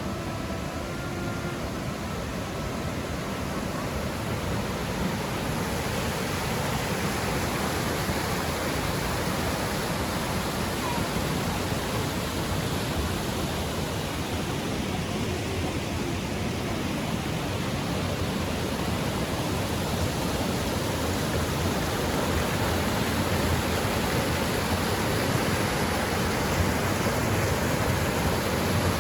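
Steady rush of falling water from the Triberg waterfalls, growing gradually louder.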